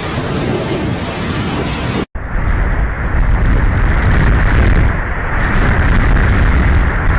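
Steady rushing noise with a heavy low rumble. It drops out for an instant about two seconds in, then comes back duller and deeper.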